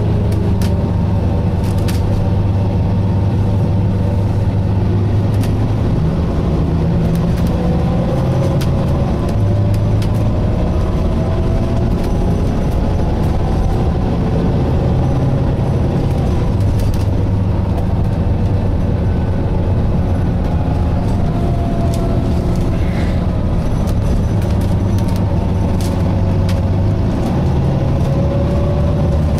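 Volvo B9TL double-decker bus heard from inside, its engine and driveline running under way, with a low drone that shifts in pitch every few seconds and a whine that rises several times as it picks up speed. Frequent rattling clicks and knocks from the body sound throughout.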